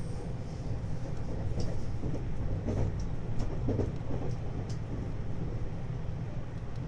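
Running noise inside a 521 series electric train: a steady low rumble of wheels on rail, with scattered light clicks and a few brief faint tones, as the train nears a station stop.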